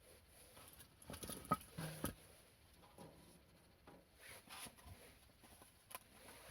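Faint, scattered rustling with a few light knocks and clicks, like small objects being handled. The sounds cluster about one to two seconds in.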